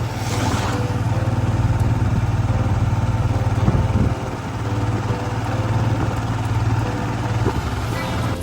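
Motorcycle engine running steadily, with a short drop in level about four seconds in.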